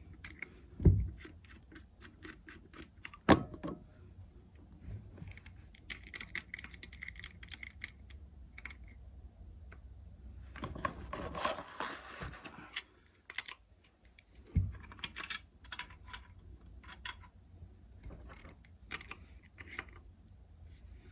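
Hand tools and metal pipe fittings clicking and clinking during plumbing work, with a few heavier knocks about a second in, about three seconds in and near fifteen seconds, and a longer scraping rattle around eleven to thirteen seconds.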